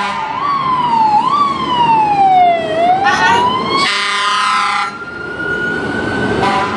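American fire truck responding with its siren sweeping up and down in pitch, sounding its air horn in one blast about four seconds in, then a siren tone slowly rising near the end.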